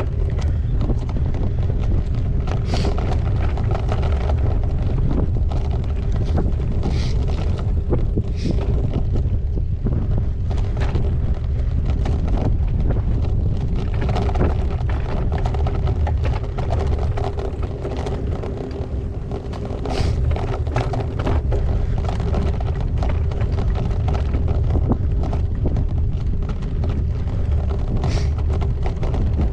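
Wind buffeting the microphone of a bike-mounted action camera during a gravel bike ride, over a steady rumble of tyres on the track with scattered clicks and rattles from the bike.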